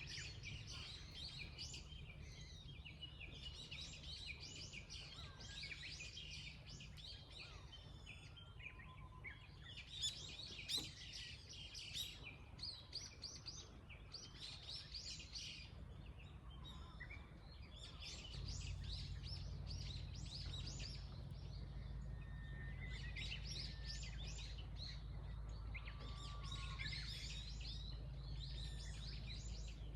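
Several small birds singing and chirping at once, quick overlapping trills and twitters, over a steady low rumble that becomes louder about two-thirds of the way through. A couple of short clicks come about a third of the way in.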